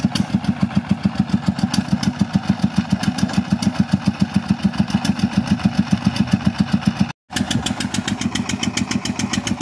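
Single-cylinder diesel engine of a công nông farm truck chugging steadily at about seven beats a second while hauling a load of acacia logs up a slippery slope. The sound drops out for an instant about seven seconds in, then the chug carries on slightly quieter.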